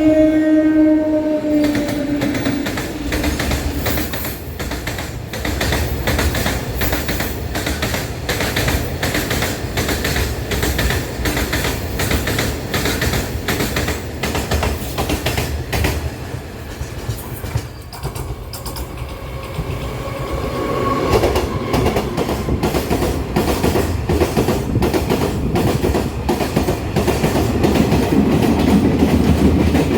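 Taiwan Railways freight train passing, its wheels clattering in a steady run of clicks over the fishplate rail joints, over a low rumble. A horn sounds right at the start and fades within about two seconds.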